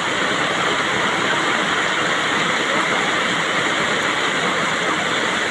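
Heavy rain falling: a loud, steady hiss of water that does not let up.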